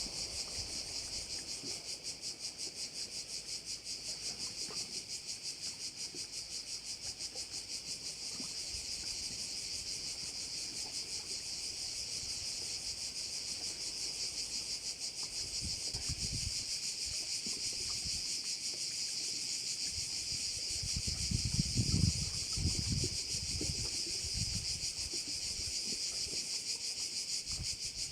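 A dense chorus of cicadas, a steady high rasping buzz with a fast pulse that runs on without a break. Low rumbling buffets come in about halfway through and again about three quarters in.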